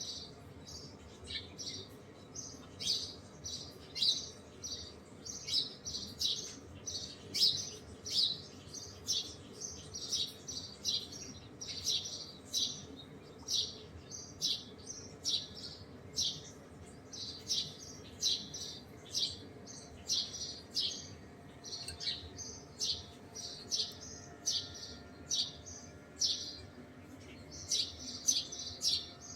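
Small birds chirping: short, high chirps repeating at about two a second.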